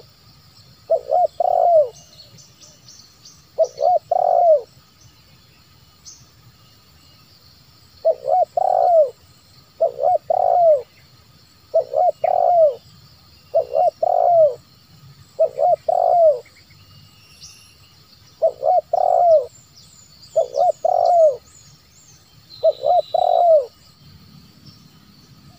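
Spotted dove (tekukur) cooing: about ten short phrases, each a quick run of two or three rising-and-falling coo notes, repeated every one to two seconds with a longer pause near the start. Faint high chirps of small birds are in the background.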